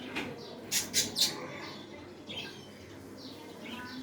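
Small birds chirping with repeated short high calls, and three loud harsh squawks in quick succession about a second in.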